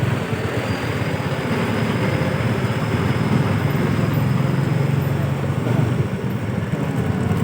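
Vehicle engine running steadily under a continuous, dense street din.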